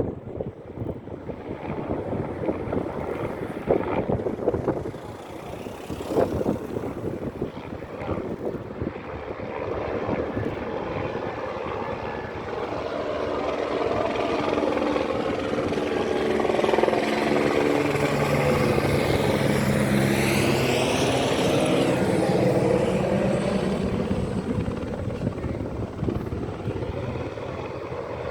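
Firefighting helicopter flying in low, its rotor noise growing louder until it passes close overhead about two-thirds of the way through, then falling in pitch as it moves away. Wind buffets the microphone in the first few seconds.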